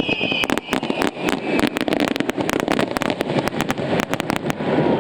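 Fireworks going off close by: a rapid string of sharp bangs and crackles, several a second, over a steady low rumble. A high whistle fades out in the first second or so, and the bangs stop about four and a half seconds in.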